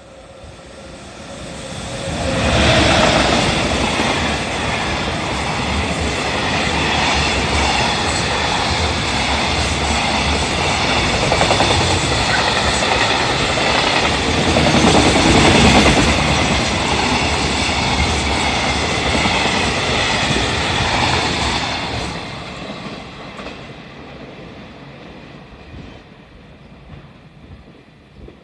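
EF210 electric locomotive hauling a container freight train through the station without stopping. The sound builds as the locomotive arrives about two seconds in. The wagons' wheels then clatter past until about 22 seconds in, after which the sound fades away.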